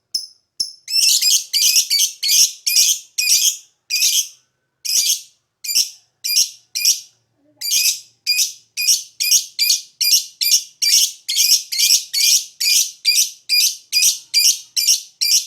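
Lovebird chattering: a rapid run of short, shrill, harsh chirps, about two to three a second, growing fuller about a second in, with a brief break midway.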